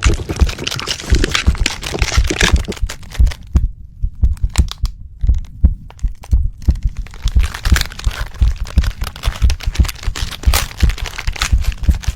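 Body-transformation sound effect: a dense run of low thuds and sharp cracking and crunching. The crackling thins out for a couple of seconds about four seconds in while the low thuds go on.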